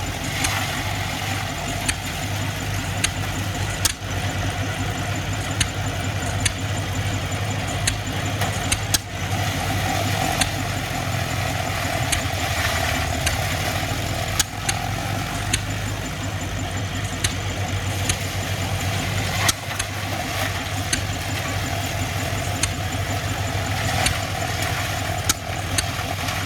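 Tractor engine running steadily, with sharp clicks and knocks at irregular intervals, every second or two.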